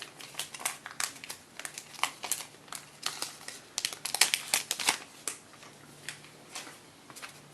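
Trading cards and their pack wrapper being handled up close: irregular crinkling and rustling with quick sharp snaps, busiest around the middle and thinning out near the end.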